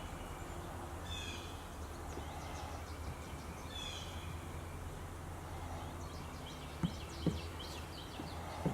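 Birds chirping a few short times over a steady low hum, with two sharp clicks near the end.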